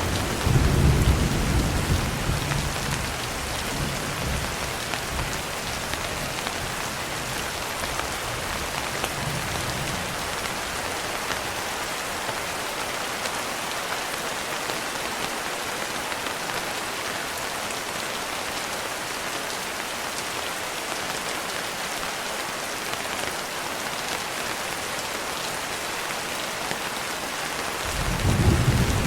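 Steady rain pattering on a window glass, with a low roll of thunder dying away over the first several seconds and another rumble of thunder building near the end.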